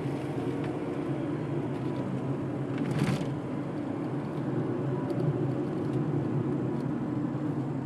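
A car's engine and road noise heard from inside the cabin as it drives, a steady low hum, with a short hiss about three seconds in.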